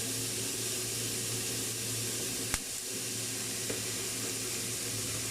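Chicken pieces sizzling in oil as they brown in a pan: a steady hiss, with a low hum underneath and one sharp click about halfway through.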